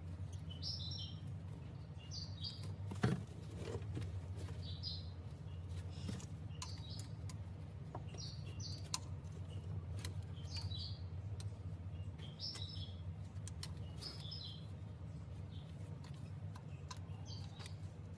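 A bird chirping over and over, a short high call roughly every second or so, over a steady low hum, with a single sharp knock about three seconds in.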